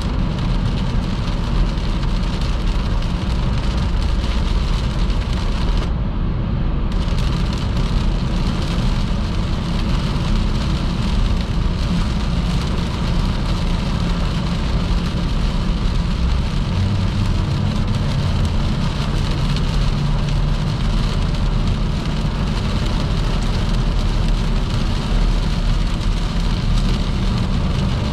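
A car driving at speed on a wet motorway in heavy rain: a steady low rumble of road and engine with a hiss of tyres and rain over it. The high hiss cuts out for about a second around six seconds in.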